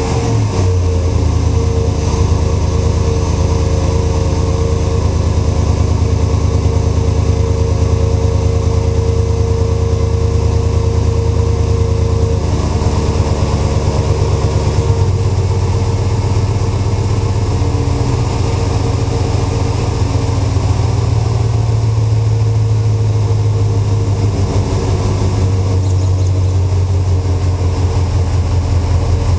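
Jeep Commander's 4.7-litre V8 idling steadily through a Flowmaster Delta 50 Series exhaust, its idle note shifting slightly about halfway through.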